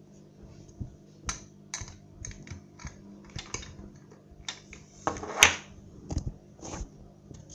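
A run of irregular light clicks and taps, with one louder knock about five and a half seconds in.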